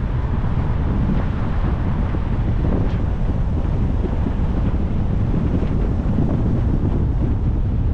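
Steady, loud wind buffeting on the microphone of a camera on a moving car, a low rumble with no breaks.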